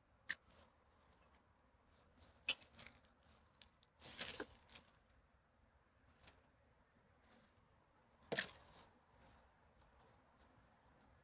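Irregular rustling and crinkling of litter being picked up and handled, with a few sharper crackles, the loudest about two and a half seconds in and again near eight and a half seconds.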